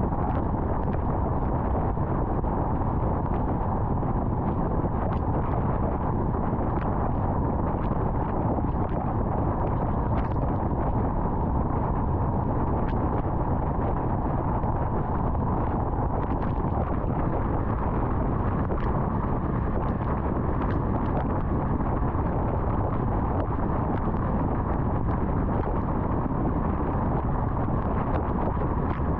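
Steady road noise of a car driving on an interstate highway: a continuous low tyre and wind rumble with faint, scattered ticks.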